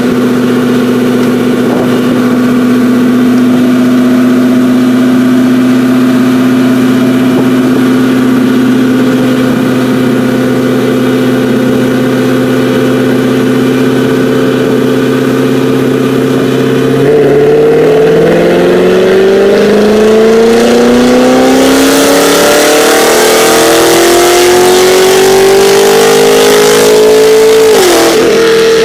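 Cammed LS3 V8 in a 2013 Camaro SS running on a chassis dyno. It holds a steady engine speed, then about seventeen seconds in climbs smoothly and steadily in pitch for some ten seconds in a wide-open-throttle pull. Near the end the pitch dips sharply and recovers.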